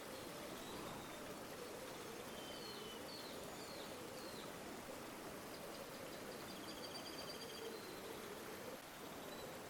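River water flowing with a steady rushing sound, with small birds chirping faintly over it: a run of four quick slurred notes about a quarter of the way in and a fast trill a little past the middle.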